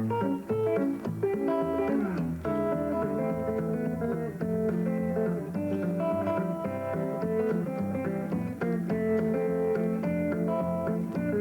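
Thumbpicked guitar playing an instrumental in the Muhlenberg County style: a steady alternating bass from the thumb under melody notes picked on the treble strings.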